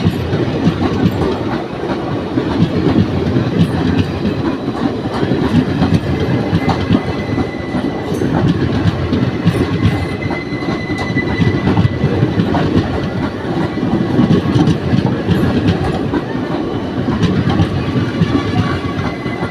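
Moving train: a steady rumble of wheels on the rails with the clickety-clack of rail joints, and a faint thin squeal for several seconds in the middle.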